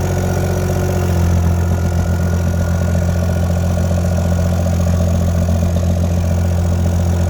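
Mini excavator's engine running steadily at low revs, growing a little louder about a second in.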